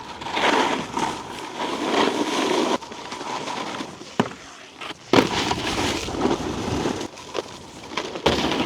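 Snowboard edges scraping and chattering over icy, slushy snow during a run, with hard knocks about five seconds in and again near the end as the board lands and hits the snow.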